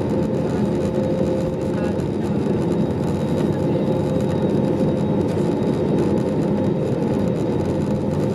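Airbus A320neo cabin noise: the steady hum and rush of the aircraft with a few held whine tones, unchanging in pitch and loudness.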